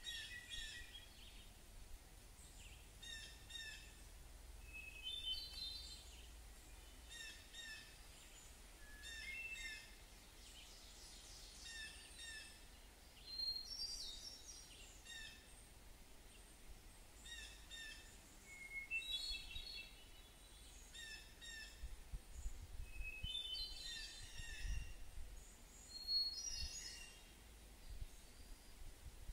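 Birds chirping: short high calls repeated every second or two, with a faint low rumble underneath.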